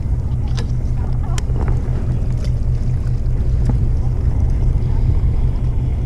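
Fishing boat's engine running, a steady low rumble, with a few sharp clicks on top.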